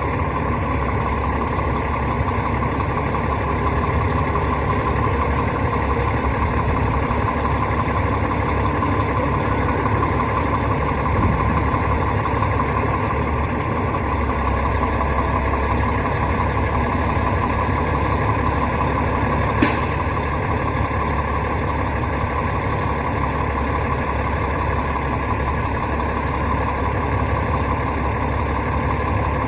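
Rooftop HVAC unit running with a steady mechanical drone. There is a brief hiss about twenty seconds in.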